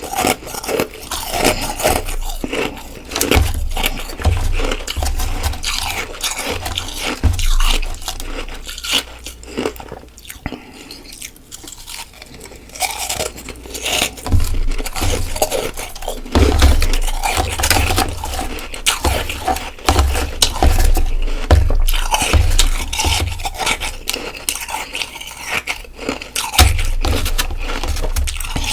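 Close-miked biting and chewing of soft, hard-packed freezer frost: dense, irregular crunching and scraping, with deep thumps now and then.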